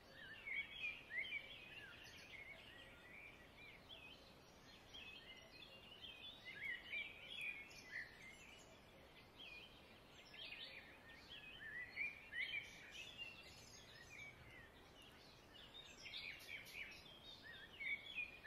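Faint birds chirping, many short calls, over a low background hiss.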